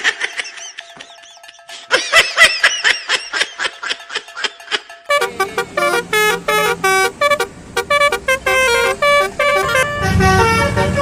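Multi-tone telolet bus horn playing a tune of short stepped notes, after a run of quick rising-and-falling chirps; a low rumble joins near the end.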